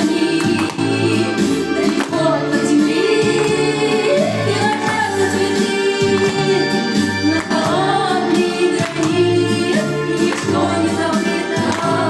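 A song with sung vocals over a backing track with a steady beat and a repeating bass line.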